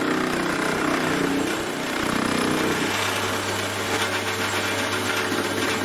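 Metal lathe running with a steady motor hum while turning down aluminium bar stock, taking light cuts of about half a millimetre at a time.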